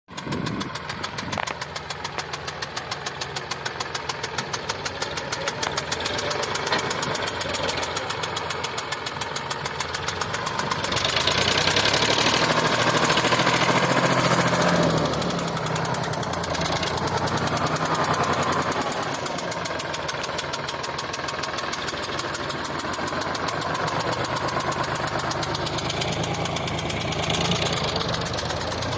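Sonalika DI 745 tractor's diesel engine running with a steady, even beat, getting louder about eleven seconds in and holding there.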